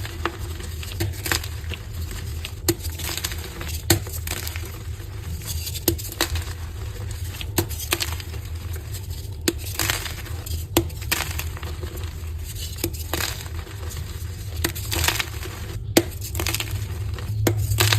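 Dyed soft gym chalk being crushed: a steady run of irregular crunches and crackles with sharper clicks every second or so, over a low steady hum.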